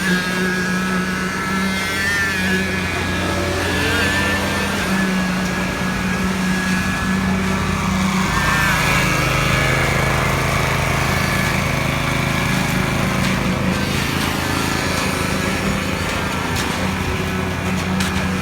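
Engine running steadily at constant speed on a concrete pour, a machine at work on the site.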